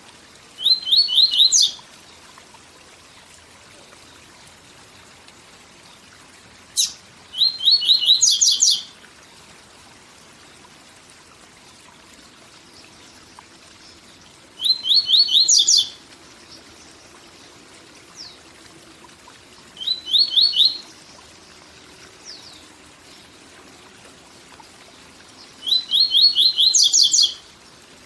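Papa-capim seedeater singing its 'tui tui zel zel' song: five short phrases of fast repeated high notes, each about a second long and several seconds apart. A faint steady waterfall hiss runs underneath.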